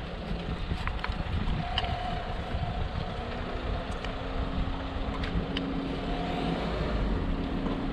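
Peugeot 407 2.0 HDI diesel engine idling steadily just after being started. A few faint clicks sound over the idle.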